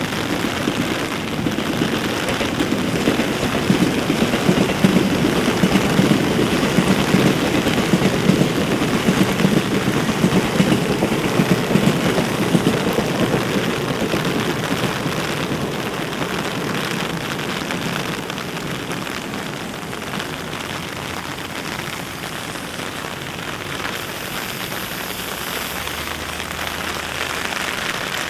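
Heavy rain falling steadily in a dense patter. It is heaviest through the first half and eases slightly after about fifteen seconds.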